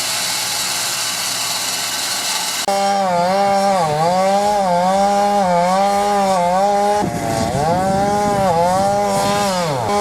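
A Wood-Mizer WM1000 band sawmill cutting a large log with a steady high hiss; a few seconds in it gives way abruptly to a chainsaw cutting at full throttle, its engine pitch dipping and recovering repeatedly as it labours in the wood.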